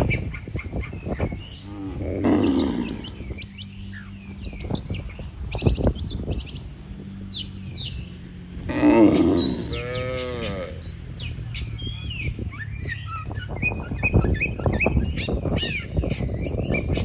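Cattle mooing twice: a short low call about two seconds in, then a longer one about nine seconds in. Birds chirp throughout.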